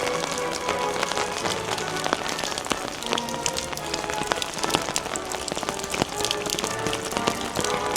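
Rain falling, with many sharp drop taps close to the microphone, while music with held melodic notes plays alongside.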